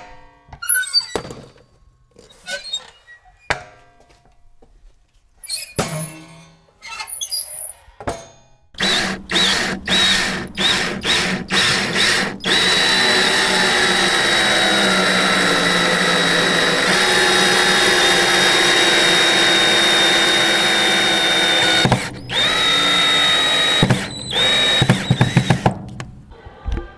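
A high-pitched power-tool motor run in a series of short bursts, then held on steadily for about ten seconds, then in more short bursts near the end. A scatter of short, varied noises comes before it.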